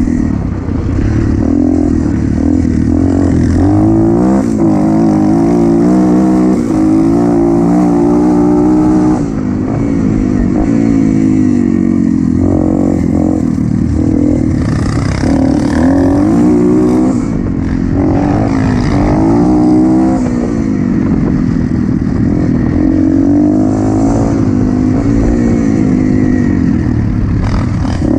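Motocross dirt bike engine running hard, its revs climbing and dropping over and over with throttle and gear changes.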